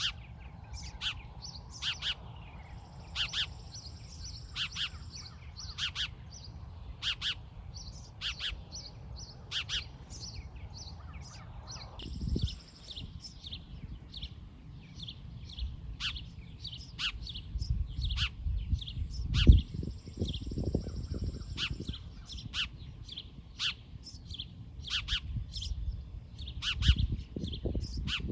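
Small birds chirping, short high chirps repeating steadily throughout, over a low rumble, with one sharp thump about two-thirds of the way in.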